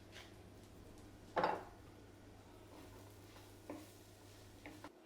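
Bread cubes being stirred in a frying pan with a spoon: one louder scrape and clatter about a second and a half in, then a few light knocks, over a faint low hum that cuts off near the end.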